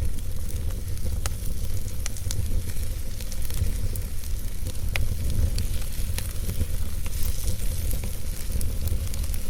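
Wood fire burning in a fireplace, crackling with sharp pops every second or so over a steady low rumble.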